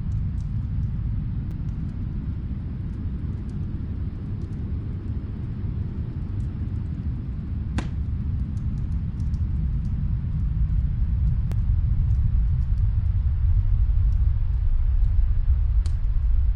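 Snowstorm wind as a steady low rumble, with faint scattered crackles of a wood fire and one sharper pop about eight seconds in.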